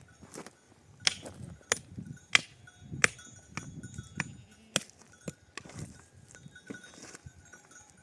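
A run of sharp knocks, like hammering: six hard strikes about two-thirds of a second apart, ending a little after five seconds in, with softer thuds between them.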